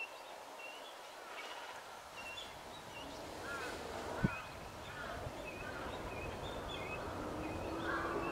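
Great cormorant chicks calling over and over, many short, high calls overlapping. About three seconds in a low rumble comes up underneath, and a single sharp knock sounds a little after four seconds.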